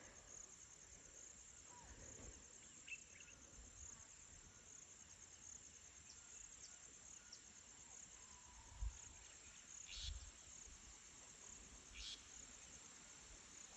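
Faint outdoor insect chorus: a continuous high-pitched, evenly pulsing trill like crickets, with a few soft low thumps.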